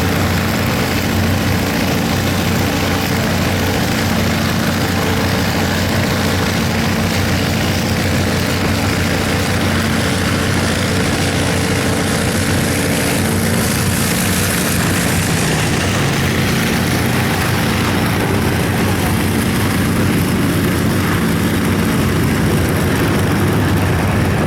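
A replica Messerschmitt Me 262 jet and a P-51 Mustang flying past together. There is a steady low engine drone, with a jet hiss that swells around the middle and then fades.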